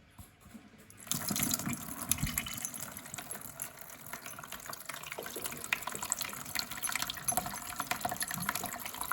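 Water from a Tetra EX 800 Plus canister filter's outflow pouring in a steady stream into a bucket, starting about a second in: the flow being measured by filling the bucket.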